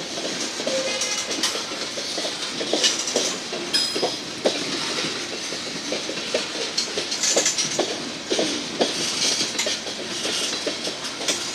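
Freight cars rolling slowly past, their steel wheels knocking and clicking irregularly over the rail joints, with scattered metallic clanks and squeaks.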